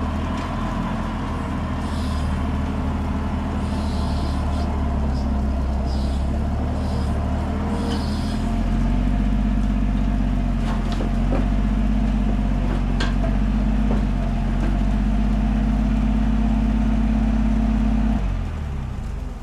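An engine running steadily. About halfway through its note shifts and it gets a little louder, with a few sharp knocks, and near the end it winds down and shuts off.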